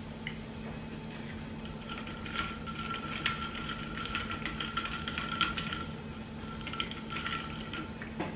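Close-up chewing and crunching of crisp Doritos taco shells: dense small crackles and clicks from about two seconds in until near the end, over a steady low hum.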